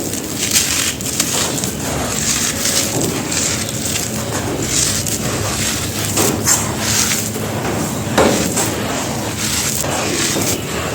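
Lumps of dry, gritty red dirt being crumbled, with a dense run of crunching and many small sharp cracks and a gritty hiss between them.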